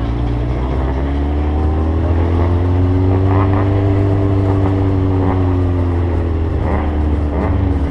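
Sport motorcycle engine running while riding, its note rising slowly and then easing back down over several seconds, over a steady low rumble.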